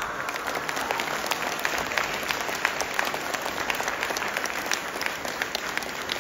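Audience applauding after the song ends, many hands clapping densely and evenly.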